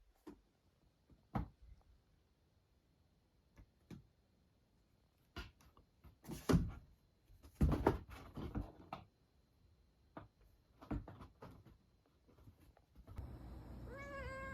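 Irregular knocks, taps and thuds of kitchen things being handled and set down while cupboards and drawers are cleared out. Near the end a young brown tabby cat meows, a drawn-out call that the owner hears as the word 'gohan' (food).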